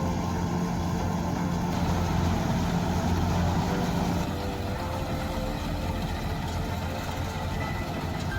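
Heavy farm machine engine running steadily with a low hum that drops a little about four seconds in.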